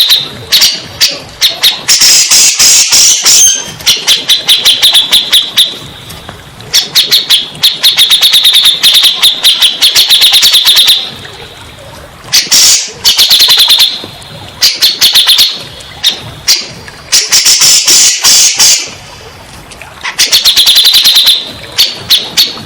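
Cucak jenggot (grey-cheeked bulbul) singing loudly in phrases of rapid chattering notes, each one to three seconds long, with short pauses between them.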